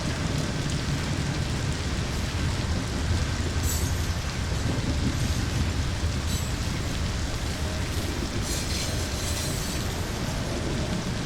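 Steady rain hiss layered over the low, continuous rumble of a train running on the rails.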